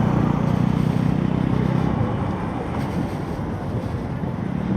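Motorcycle engine running while riding, over road and wind rumble. The engine note is strongest in the first two seconds, then eases.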